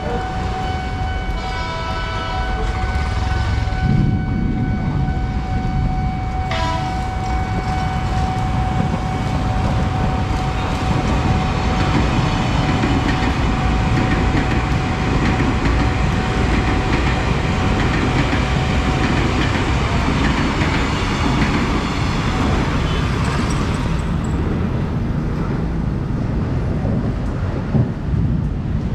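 A Tokyu 8000 series electric commuter train passes a level crossing. Its horn sounds a couple of seconds in, then its wheels and motors rumble steadily as it runs by. A steady electronic warning tone from the crossing signal runs under it and stops about two-thirds of the way through.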